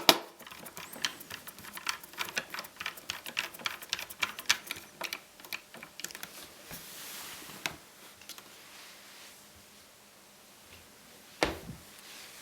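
Quick, irregular run of light plastic clicks and taps from hands working on a laptop's casing and parts, then a lone louder knock near the end.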